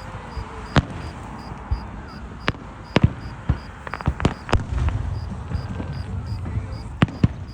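Fireworks going off, about nine sharp bangs at irregular intervals, some in quick pairs.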